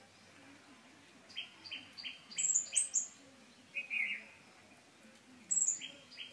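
Birds chirping: a run of quick high chirps, several a second, comes twice, with a single lower, falling call between them.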